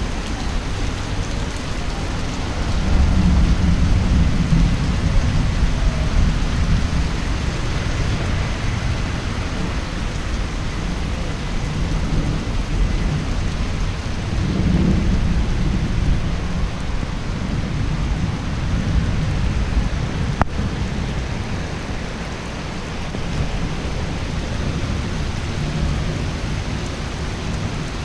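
Heavy thunderstorm rain pouring steadily, with a low rolling rumble of thunder that swells about three seconds in and again around fifteen seconds. A single sharp click comes about twenty seconds in.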